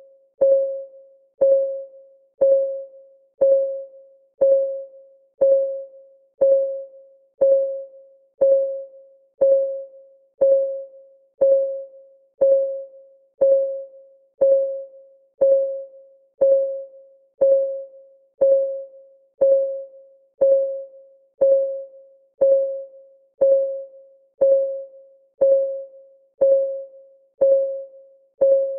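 Countdown timer's clock-ticking sound effect: a short, pitched tick once a second in a steady, even beat, each tick dying away quickly.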